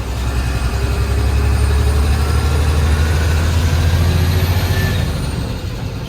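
Heavy diesel engine of earth-moving machinery running steadily with a low drone, easing off slightly near the end.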